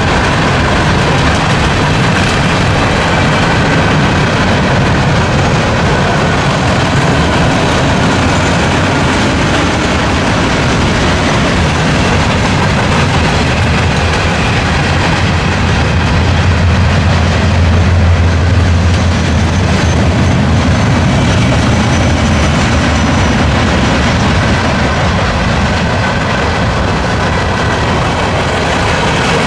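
Mixed freight cars (gondolas, boxcars, covered hoppers and flatcars) rolling past: a loud, steady rumble and rattle of steel wheels on rail, the low rumble swelling a little around the middle.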